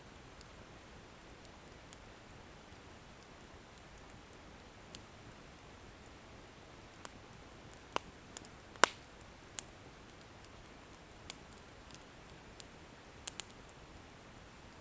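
Wood fire burning with a soft steady hiss and scattered sharp crackles as the firewood pops, a handful of them, the loudest about nine seconds in.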